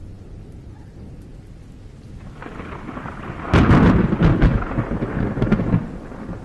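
A thunderclap over steady rain: a low rumble builds, breaks into a loud crackling clap about halfway through, then rolls away over a couple of seconds.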